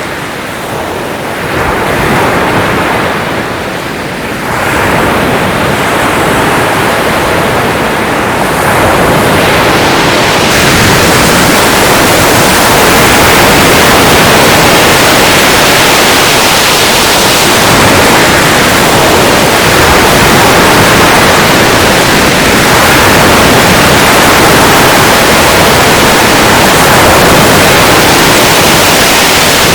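Sea surf: waves washing in, with a few surges that rise and fall over roughly the first ten seconds, then a steady, dense rush of water.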